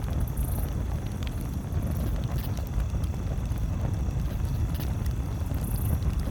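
Campfire crackling, with sharp pops at irregular intervals over a steady low rumble.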